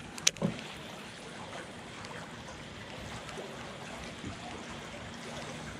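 Water trickling and lapping quietly around a small boat at night. A sharp click comes about a third of a second in, with a short knock just after.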